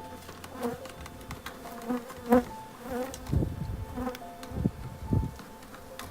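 Many honeybees buzzing close by, the whines of single bees rising and fading as they fly past, the colony agitated by its hive being torn open. Three dull low thumps sound about three and a half, four and a half and five seconds in.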